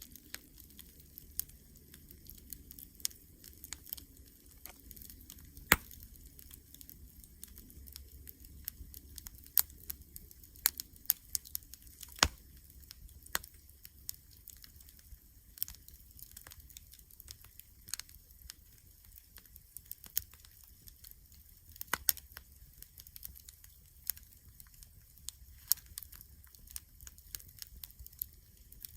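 Wood campfire crackling: irregular sharp pops and snaps, a few louder than the rest, over a low steady rumble.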